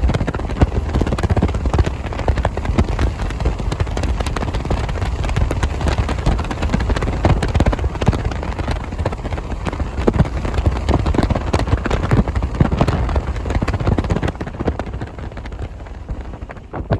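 Hail and heavy rain pelting a vehicle: a dense stream of irregular sharp impacts over a low wind rumble, easing off near the end.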